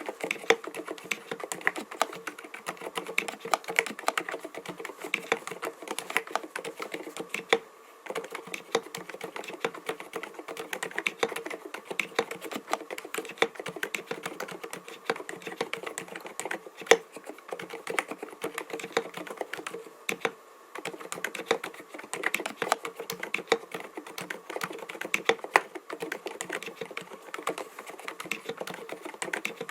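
Continuous fast typing on an mStone Groove T 87A mechanical keyboard with 45 g silent milky switches, keystrokes rattling out in quick runs. The typing stops briefly about eight seconds in and again about twenty seconds in.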